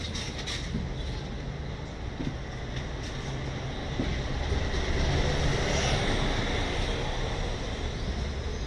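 Hong Kong double-decker tram running along its rails: a steady rumble that grows louder about four seconds in, with a faint high ringing tone near the loudest part.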